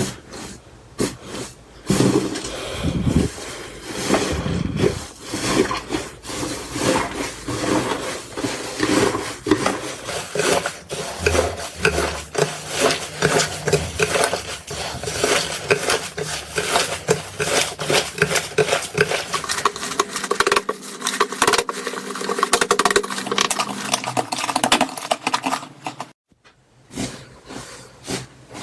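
Slime being squished and pressed by hand, giving a dense run of rapid sticky clicks and pops. The sound breaks off for about a second near the end, then starts again.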